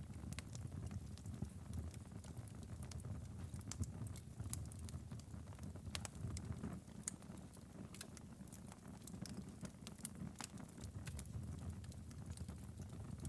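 Wood fire in a fireplace burning steadily: a low rumble of the flames with irregular sharp crackles and pops from the burning logs.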